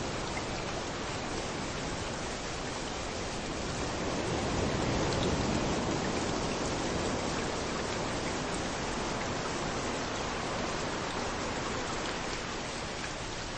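Steady hiss of rain falling, mixed with surf washing onto the beach. The sound swells for a few seconds around the middle, as a wave comes in, then eases again.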